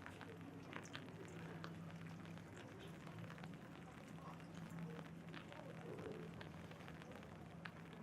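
Raindrops tapping on an umbrella overhead: a dense, irregular scatter of small ticks over a faint hiss of rain, with a steady low hum underneath.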